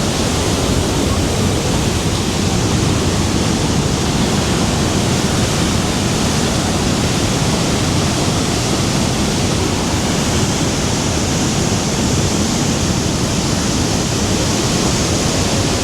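The Rhine Falls' water rushing: a loud, steady, unbroken noise of falling water.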